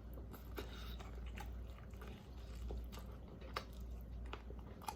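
A person chewing and biting food close to the microphone, with many short, wet mouth clicks at an uneven pace.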